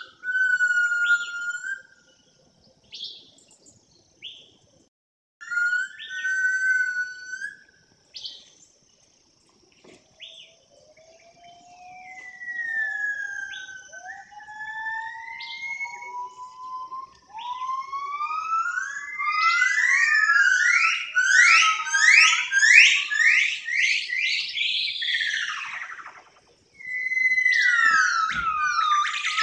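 A bird singing a loud whistled song of clear, gliding notes. Short phrases with pauses lead into slowly rising notes, then a fast run of steep sweeping notes in the second half, ending in a long falling whistle.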